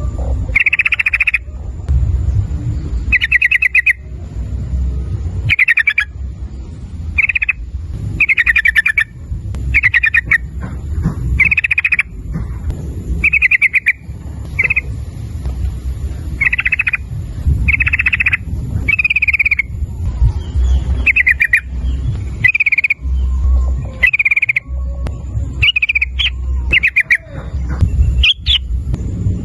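Yellow-vented bulbul (trucukan) singing a long string of short, rapid trilled phrases, about one a second, over a low rumble.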